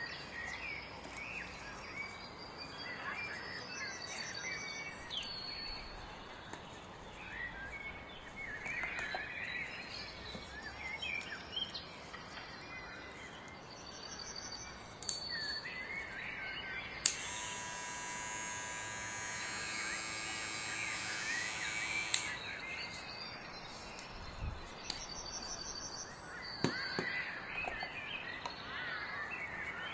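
Birds chirping in the background, with a faint insect-like ticking now and then. Midway a steady sound with several even tones starts and stops sharply about five seconds later.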